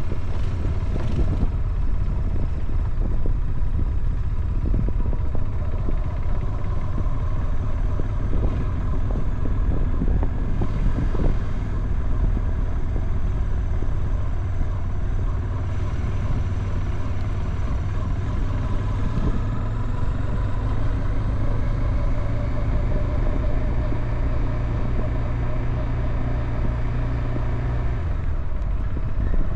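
Motorcycle engine running during a ride: a steady low rumble.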